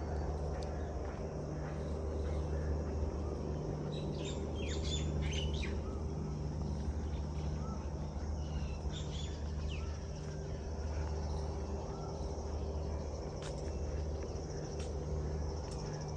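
Birds chirping in short, high calls, a cluster about four seconds in and another around nine seconds, with a few scattered calls between, over a steady low hum.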